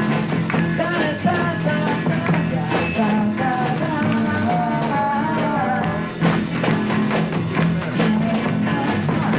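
A raw 1960s garage-rock band playing a rock and roll song on electric guitars, bass and drums, with a wavering lead line in the middle and no clear vocal.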